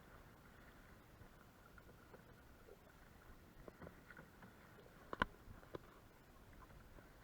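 Canoe on a quiet pond, nearly silent, with a few light knocks of a paddle or gear against the hull a little after five seconds in, one of them sharper than the rest.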